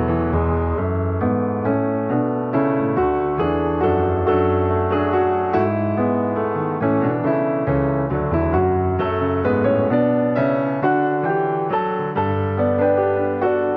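Background piano music: a steady flow of soft struck notes over held low chords.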